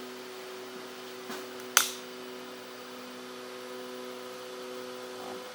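Qidi X-Plus 3 3D printer's cooling fans humming steadily just after a finished print, with a sharp click a little under two seconds in. Part of the hum cuts off near the end.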